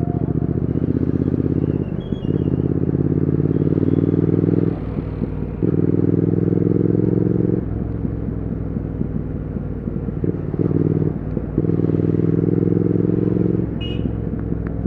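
Triumph Speed Twin 1200's parallel-twin engine and exhaust while riding. It pulls hard under throttle in several stretches of about two seconds, and between them it eases off briefly into a quieter, rougher burble as the rider shifts or rolls off.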